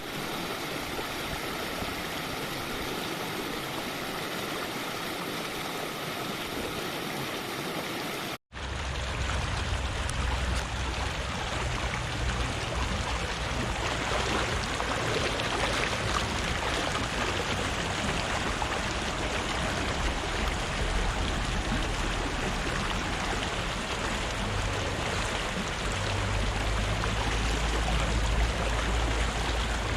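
Flowing river water running over rocks, a steady rush. About eight seconds in it cuts to a second stretch of water with a deeper rumble.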